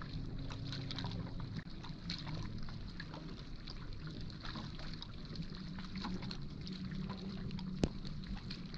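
Water lapping and sloshing against a boat, with a steady low hum, scattered light ticks and one sharp knock near the end.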